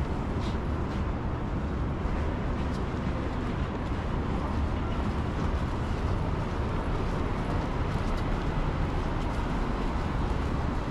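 Steady city street noise: a continuous low rumble of traffic.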